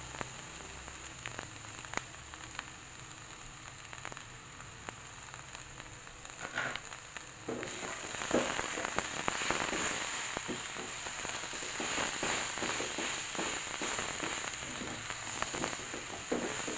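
Stir-fry of oncom, leunca and chillies sizzling in a wok: a soft steady sizzle that grows louder from about halfway, with the scraping and clicking of a spatula stirring the food.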